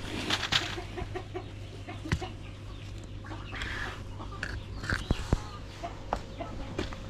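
Chickens clucking in short, scattered calls, with a few sharp taps among them.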